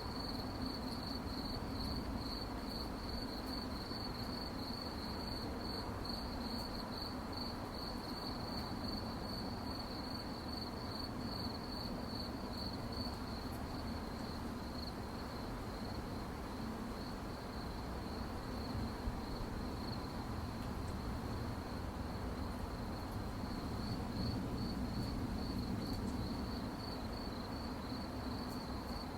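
Crickets chirping at night in a fast, even pulsing trill, high-pitched and steady, fading somewhat in the middle before growing stronger again near the end, over a faint low background rumble.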